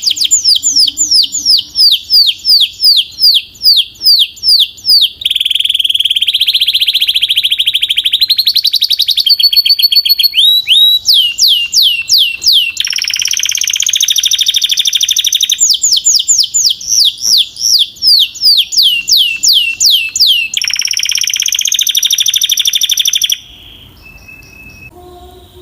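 Belgian canary singing loudly in a long song of repeated falling whistled notes, about three a second, alternating with fast trills and steady buzzy rolls. It changes phrase every few seconds and breaks off about two seconds before the end.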